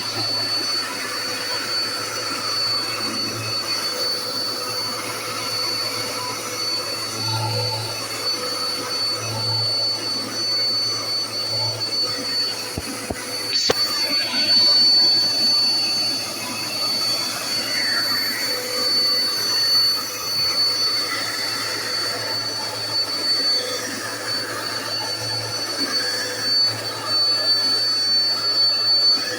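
Dirt Devil Endura Lite corded upright bagless vacuum cleaner running steadily, a high, steady whine over its rushing motor noise, with a single sharp click about halfway through.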